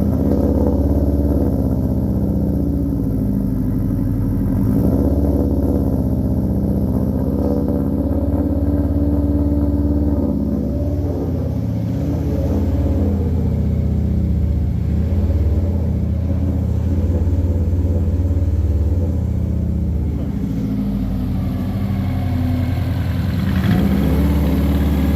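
Freshly swapped 2-litre Subaru WRX turbocharged flat-four engine running on its first start through its exhaust. The idle is rough and hunts up and down, which the owner cannot yet explain and expects to need diagnosing.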